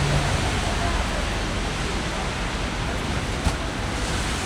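Steady rush of heavy typhoon rain and wind, with one sharp tap about three and a half seconds in.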